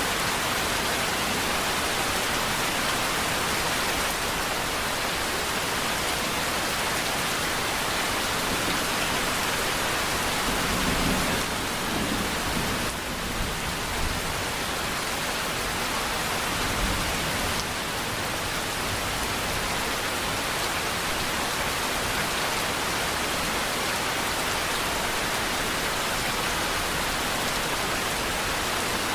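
Steady, dense rainfall hissing without a break, with a low rumble about halfway through.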